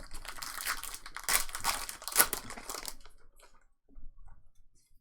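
A trading card pack wrapper being torn open and crinkled for about three seconds, then a few faint rustles and ticks as the cards are handled.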